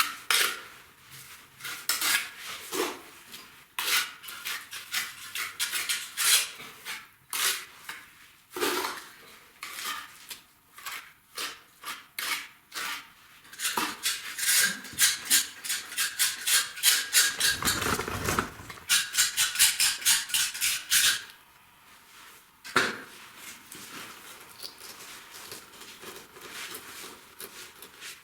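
Hand tools scraping and clinking on brick and clay mortar in many short strokes, with a dense run of quick strokes in the middle.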